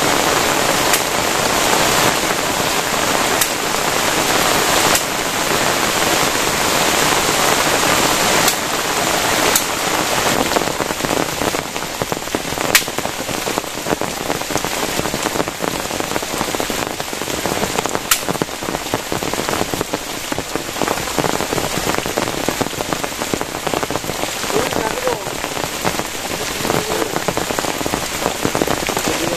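Heavy rain pouring onto a plastic tarp shelter: a dense, steady hiss with individual drops striking sharply here and there, easing slightly after about eight seconds.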